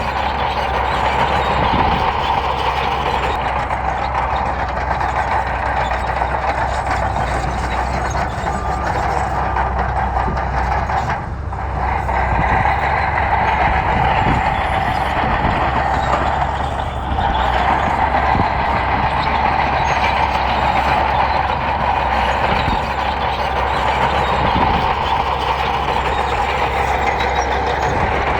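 Bulldozer's diesel engine running under load, loud and steady with a constant high whine, easing off briefly twice, about 11 and 17 seconds in.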